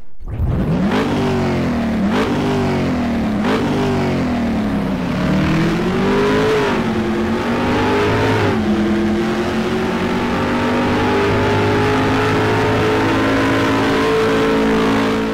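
Engine accelerating hard through the gears: the pitch climbs and drops with each shift, three quick shifts in the first few seconds, then longer gears, the last a long, slow, steady climb.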